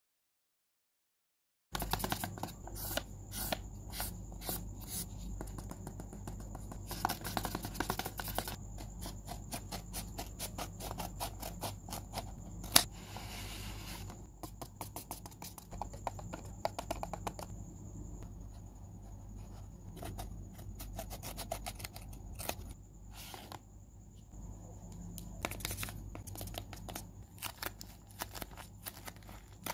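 Tape-covered paper crinkling and crackling in irregular clicks as a handmade paper craft is handled and squeezed, with one sharp click a little before halfway. This follows about two seconds of dead silence, and a low steady hum runs underneath.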